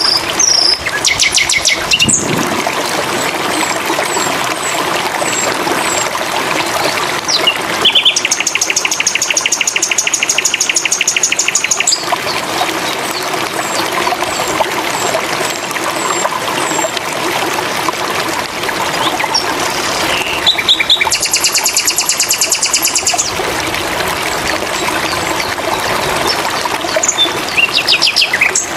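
Sikatan londo song over a steady background of running water: scattered high whistled notes, and two long, rapid trills of evenly repeated notes, one about eight seconds in and one about twenty-one seconds in.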